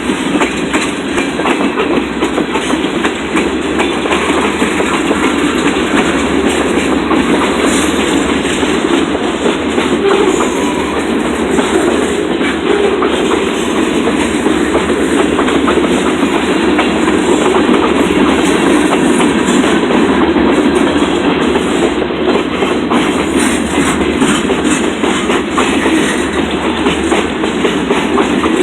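Rumford-to-Portland freight train's cars rolling steadily past, wheels clattering over the rail joints in a continuous rumble.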